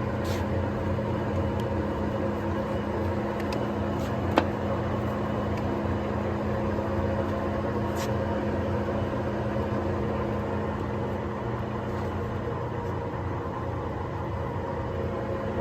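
Kingston HR3000 gap bed engine lathe running under power, its motor and gearing giving a steady hum with several held tones. A sharp click about four seconds in.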